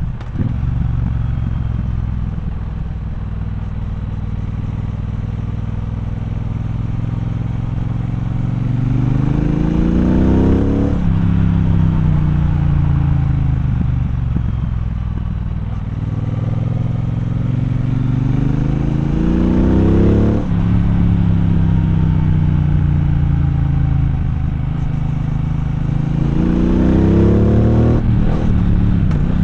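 Triumph Bonneville Bobber's parallel-twin engine heard from the rider's seat, running steady at low revs at first. It then pulls up in revs three times, and each climb is cut off sharply by a gear change.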